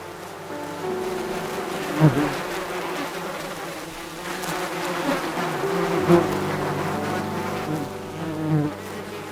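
Bees buzzing, a continuous pitched buzz that swells louder a few times, as around two and six seconds in.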